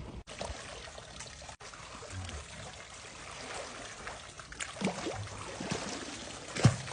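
Water trickling, with a few sharper splashes toward the end.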